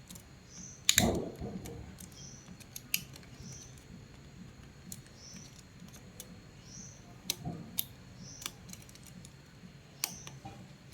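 Small metal clicks and taps of hands working on the sump pump's motor parts, with one louder knock about a second in.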